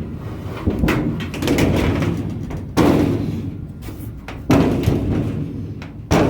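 A series of sudden heavy thuds, about five, roughly every second and a half to two seconds, each dying away slowly.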